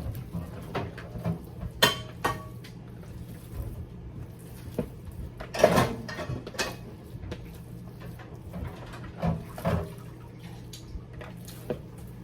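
Kitchen handling sounds: dishes, a bowl and utensils being moved and set down, a string of short knocks and clinks with one louder clatter near the middle, over a steady low hum.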